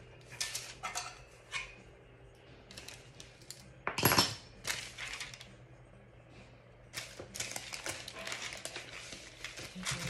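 Small hard parts of a tumbler turner clinking and rattling as it is screwed together by hand. There is a louder clack about four seconds in and a run of clatter near the end.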